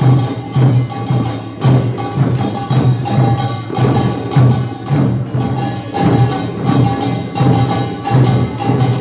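Korean nongak percussion band playing a driving rhythm of repeated strikes, with ringing metallic tones sustained underneath.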